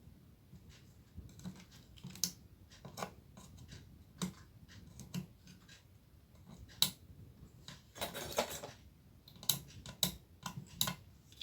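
Hand tools working a jumper wire free on a CRT TV's circuit board: a series of sharp, irregularly spaced clicks and snips, with a short rasping scrape about eight seconds in.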